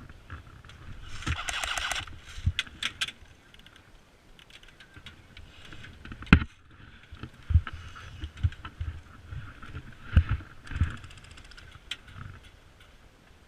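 Scattered knocks, thumps and rustling, with a short run of rapid, evenly spaced clicks about a second in and another fainter run of fine ticks near the end.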